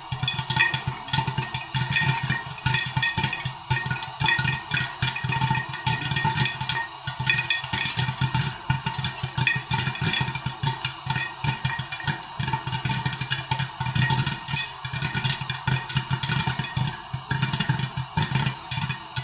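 Popcorn kernels popping fast and densely in a covered non-stick pot on the heat, many sharp pops a second over a steady low hum. This is the popcorn at full pop, nearly done.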